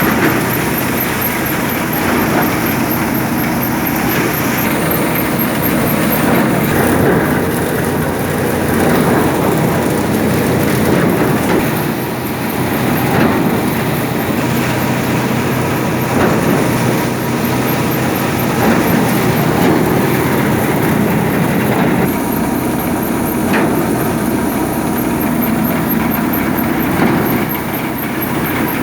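New Holland tractor's diesel engine running steadily, with a rattling clatter over the engine noise.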